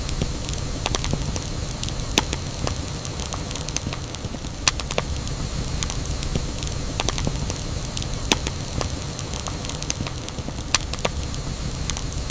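Campfire burning with a steady low rumble and hiss, and irregular wood crackles and sharp pops, four of them louder than the rest.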